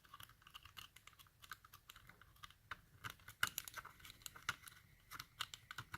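Faint, irregular small clicks and scrapes of a small hand tool working at a part of a disassembled lock.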